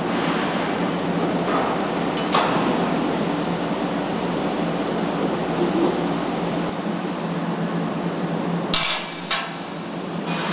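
Truck assembly-line noise: a steady factory din with knocks of metal on metal, and two loud, sharp bursts about half a second apart near the end.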